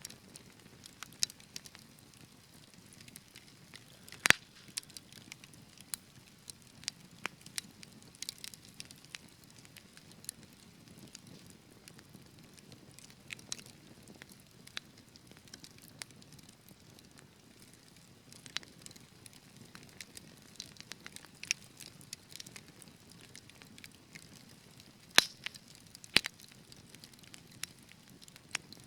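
Fire in a fireplace crackling, with irregular sharp pops over a soft low rush of flames. The loudest pops come about four seconds in and twice near the end.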